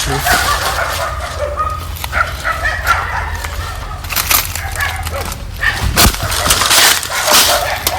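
Dogs barking and yelping, with a few short high-pitched yips early on and a run of sharp barks near the end.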